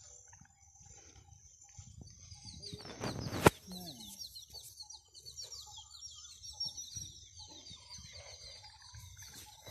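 Birds calling and chirping over a steady high-pitched hum. A sharp knock about three and a half seconds in is the loudest sound.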